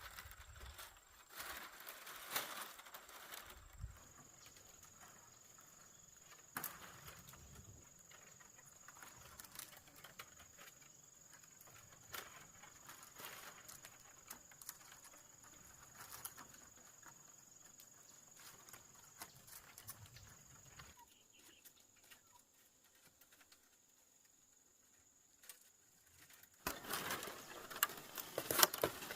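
Faint, scattered clicks and rustles of split bamboo strips being handled and woven by hand, with a thin steady high whine through most of it and busier crackling near the end.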